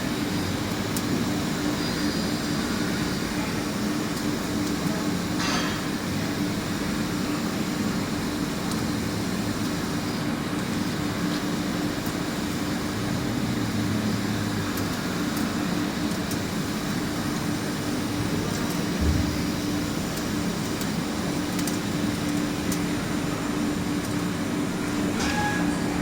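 Mazak QT200 CNC turning lathe running: a steady machine hum with one constant tone, and a couple of faint brief clicks.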